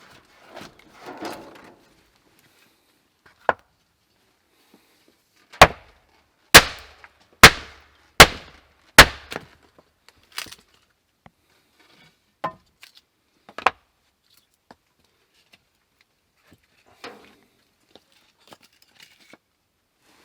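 A series of sharp knocks or strikes: five loud ones about a second apart near the middle, each with a short ring-out, and scattered quieter knocks before and after.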